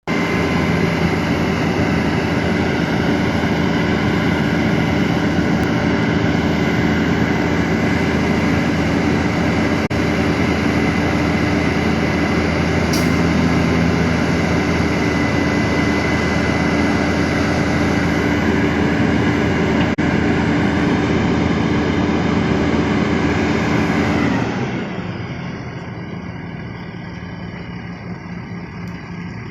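Woodworking machine running steadily, a loud even mechanical noise with a steady hum in it. About 24 seconds in it drops suddenly to a quieter, duller running hum.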